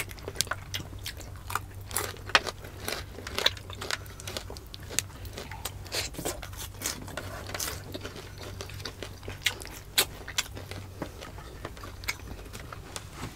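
Close-miked eating: irregular wet chewing, lip smacks and occasional crunches as two people eat fried fish and stew with their fingers, over a faint steady low hum.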